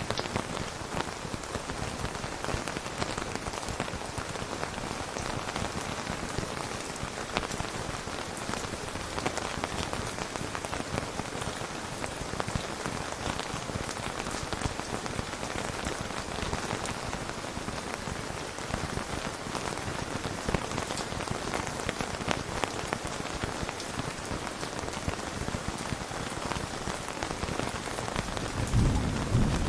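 Steady rain falling on a surface, with many small drops pattering throughout. A low rumble of thunder begins near the end.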